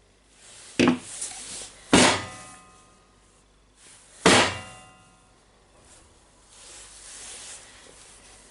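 Three sharp metal knocks, the second and third followed by a brief metallic ring, then a softer scraping noise near the end.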